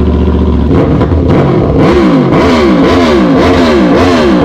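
Aprilia Tuono V4 1100's V4 engine running, then revved in quick throttle blips about twice a second from about two seconds in.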